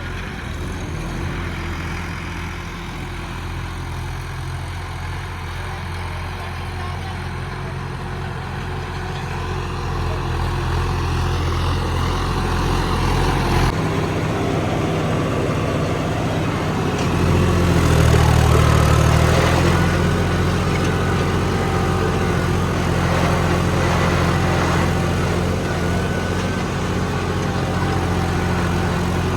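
John Deere tractor diesel engine running steadily. The engine note changes about halfway through, and a few seconds later it briefly grows louder and heavier, as if taking more load or revs, before settling.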